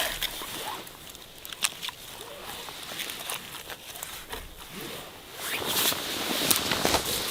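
Rustling and scraping on a forest floor, with scattered sharp twig-like clicks and a louder spell of rustling near the end.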